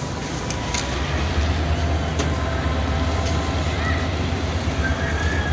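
Passenger train running, a heavy low rumble building about a second in over the steady noise of the ride.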